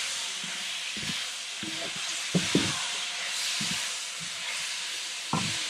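Pork belly sizzling in hot oil in an iron wok while a wooden spatula stirs and scrapes it, as soy sauce paste is poured in to colour the meat. A steady hiss, with a few brief low knocks and scrapes.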